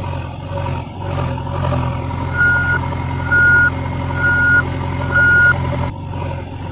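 A vehicle's reversing alarm beeping four times, about one beep a second, over a steady engine hum.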